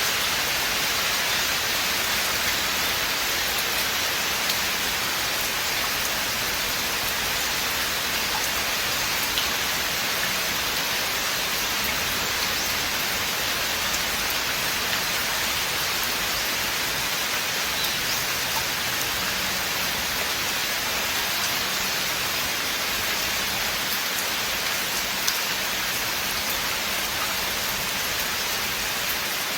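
Steady rain falling in a forest, a dense even hiss with scattered individual drop ticks.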